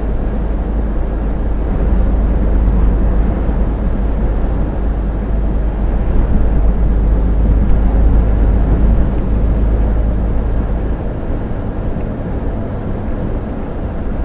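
Inside a moving lorry's cab: a steady low engine drone mixed with road and wind noise, the deep rumble easing somewhat near the end.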